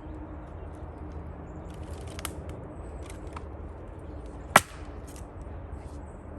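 An axe striking a firewood round, one sharp loud crack about two-thirds of the way through, with a few faint knocks of wood before it and a second strike right at the end.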